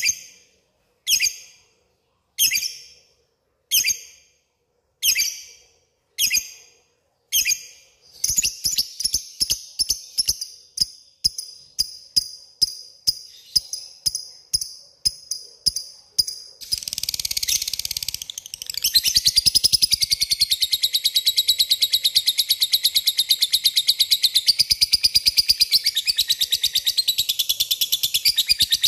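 Lovebird calling: sharp high chirps about a second apart that quicken to about two a second, then, after a brief harsh burst, a long unbroken rapid chatter, the prolonged 'ngekek' trill. It is a call that challenges a rival lovebird.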